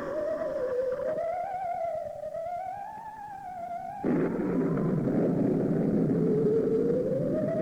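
Eerie theremin-like wavering tone, slowly sliding up and down in pitch, as a spooky Halloween effect. A rushing noise lies beneath it, drops away about a second in, and comes back suddenly and louder about four seconds in.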